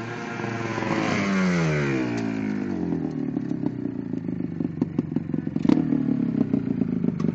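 Go-kart's Yamaha Blaster 200 single-cylinder two-stroke engine, its revs dropping steadily over about two seconds as the kart slows. It then runs at low revs with a rapid, crackly popping.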